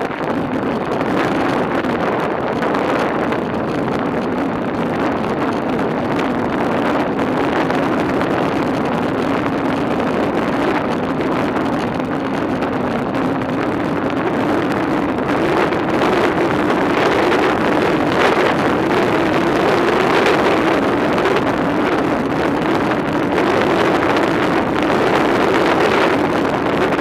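Wind rushing over the microphone of a camera riding along on a moving bicycle, mixed with a steady hum of tyres rolling on pavement that rises a little in pitch partway through.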